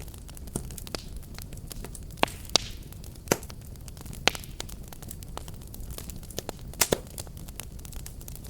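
Fireplace fire crackling, with irregular sharp pops and snaps over a low rumble of flames. A handful of louder pops stand out a couple of seconds in, around the middle, and as a quick pair near the end.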